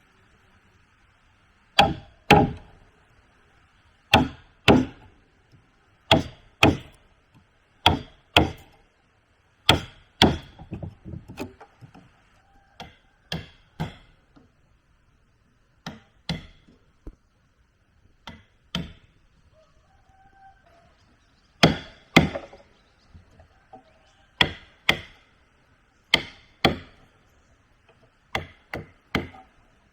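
Repeated chopping strikes of a blade into wood. The blows come often in pairs about half a second apart, with short pauses between, over a faint steady high hiss.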